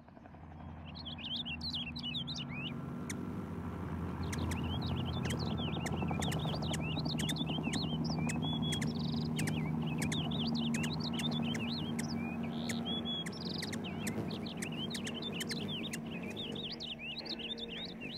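Small birds chirping rapidly and continuously, many quick high chirps, over a steady low hum.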